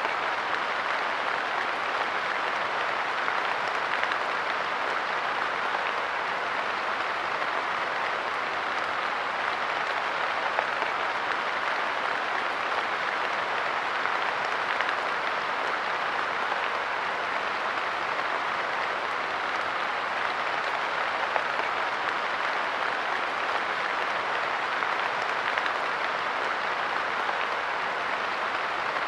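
Light rain falling steadily on a park bench, a dense, even patter of drops with no let-up.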